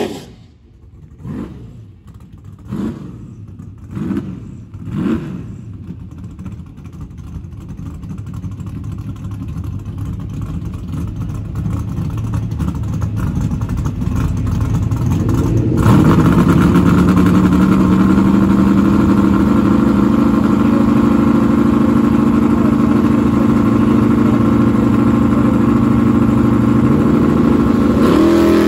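Drag-racing car engines: the Challenger R/T's V8 blipped four times about a second apart, then engine sound building. About halfway through, a loud engine note held steady at high revs for roughly twelve seconds, dropping just before the end.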